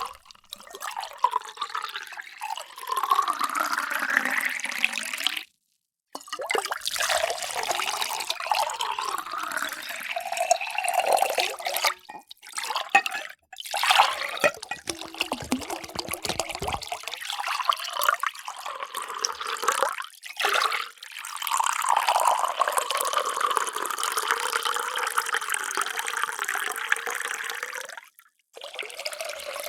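Water pouring into containers in several separate pours, each cut off by a brief silence. In the first pour the pitch rises as the vessel fills.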